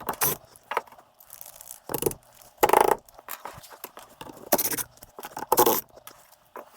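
Irregular scraping and rubbing, about four louder scrapes among quieter rustling, as the inside form pieces are worked loose and pulled out of a cast perlite-and-white-cement hibachi.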